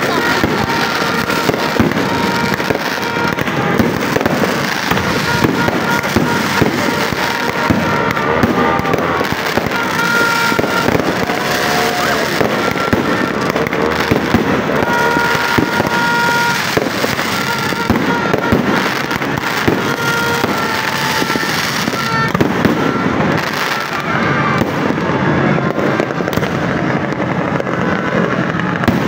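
Aerial fireworks going off in a continuous barrage: rockets launching and shells bursting, with dense crackling of many bangs in quick succession.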